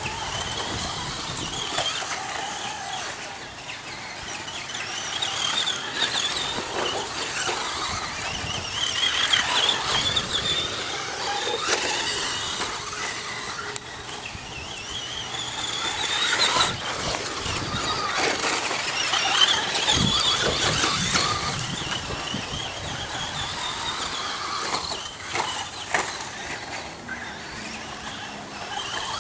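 Radio-controlled electric stadium trucks racing, their motors and gears making a high whine that rises and falls as the throttle is worked, with occasional clicks and knocks from the trucks.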